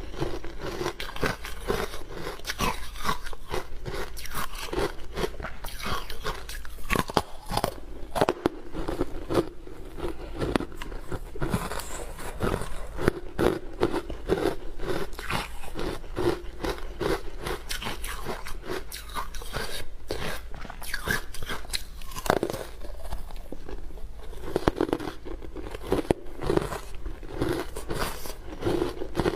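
Hard frozen ice being bitten and chewed close to the microphone: dense, irregular crunches and cracks one after another, with chewing in between.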